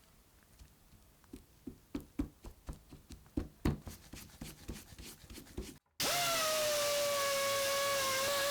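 Irregular clicks and knocks, about three or four a second and loudest in the middle, from hand work on parts. Near the end a brief dropout, then a much louder steady held tone with overtones that sinks slightly in pitch.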